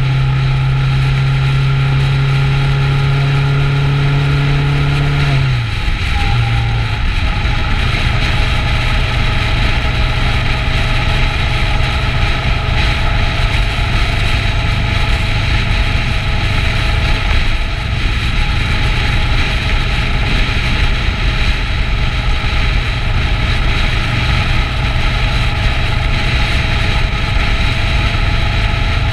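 Kawasaki Ninja 650's parallel-twin engine running at steady road speed, its note breaking and dropping briefly about five and a half seconds in before carrying on steadily, with wind rushing over the microphone.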